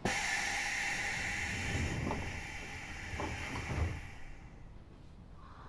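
Passenger sliding doors of an Eidan 6000-series subway car working at a station: a sudden hiss of air that fades over about four seconds, with a few low thuds near the middle.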